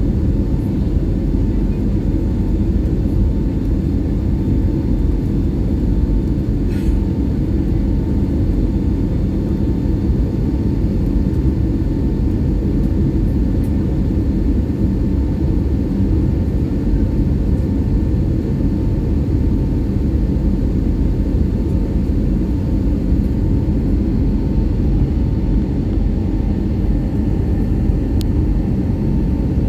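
Steady low rumble of an Airbus A320's jet engines and airflow, heard from inside the passenger cabin, with a faint steady whine above it.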